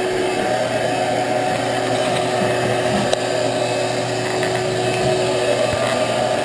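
Shop vac running steadily, sucking the bird nest out of a microwave vent duct, with a steady motor whine over the rush of air and a few faint clicks of debris.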